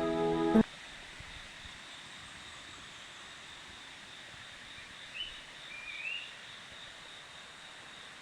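Music cuts off abruptly under a second in, leaving a steady faint outdoor hiss. Two short rising bird chirps come a little past halfway.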